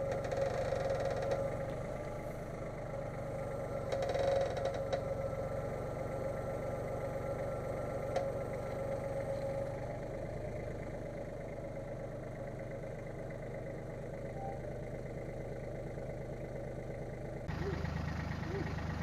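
An engine idling steadily, growing a little fuller and louder near the end.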